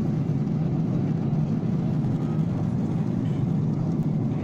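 Steady low rumble of a passenger airliner heard inside the cabin, engine and airflow noise at an even level.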